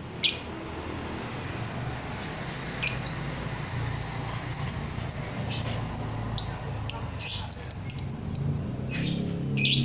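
A songbird chirping: a string of short, high chirps that come faster toward the end, over a low steady hum, with a sharp click just after the start.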